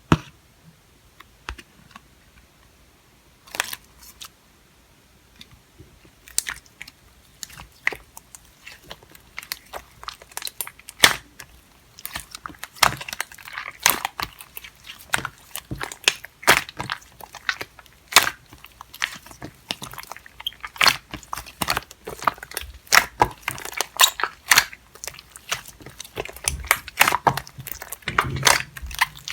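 Slime mixed with clay being pressed and kneaded by hand, giving sticky popping and crackling clicks. The clicks are scattered at first and grow dense and busy partway through.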